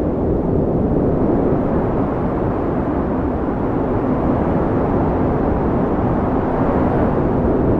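Wind blowing steadily: a low, even rushing with a slight swell near the end.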